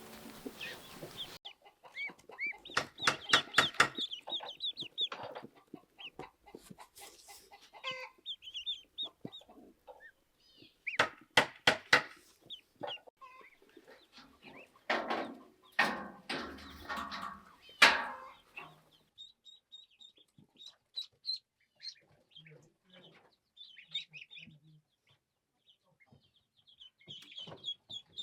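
Chickens clucking in several loud, rapid bursts, with fainter high chirping calls between them.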